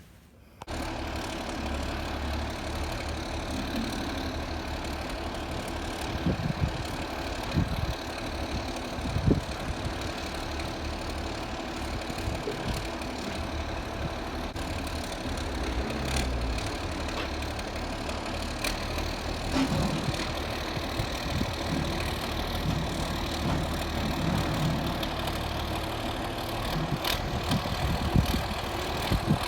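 Engine running steadily at low speed, with a few short knocks and clunks over it.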